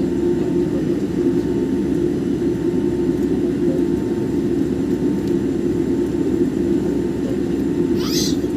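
Steady jet engine and airflow noise heard inside the cabin of a Boeing 787, a constant low rumble. A brief higher-pitched sound comes near the end.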